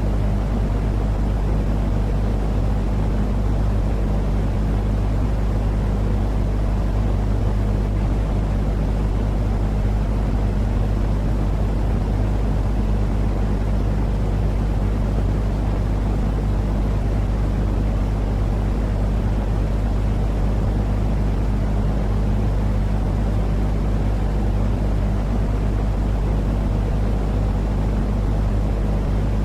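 Steady, unchanging deep rumbling noise with a constant low hum underneath, a continuous baby-soothing sleep sound.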